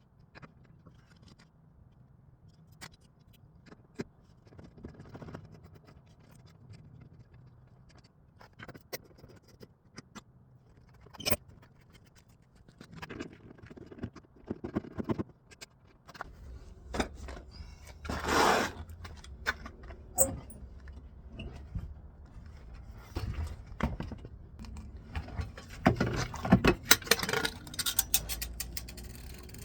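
Hand tools working on the bolts of a vehicle seat: scattered metal clicks and clinks with short scrapes, one longer, louder scrape about two-thirds of the way through. A steady low rumble joins about halfway through.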